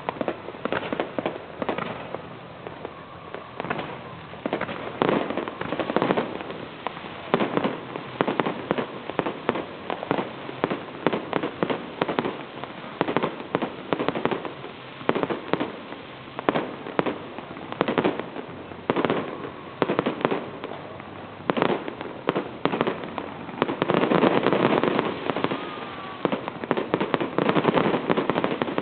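Fireworks going off continuously: many sharp bangs and pops at irregular intervals, growing into a dense crackling volley about 24 seconds in.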